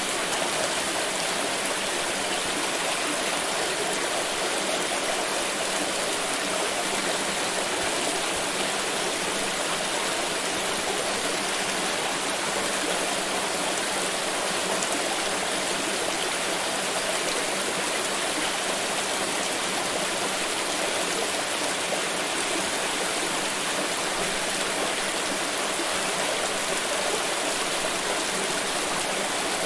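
Water pouring steadily: an even, unbroken splashing rush that does not change.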